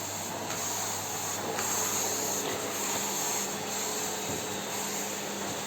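Electric vacuum cleaner running steadily: an even hiss with a low hum beneath it.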